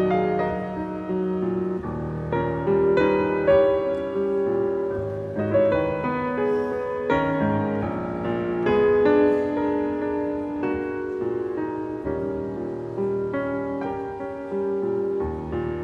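Piano playing a classical piece: a continuous flow of notes and chords at a steady moderate level.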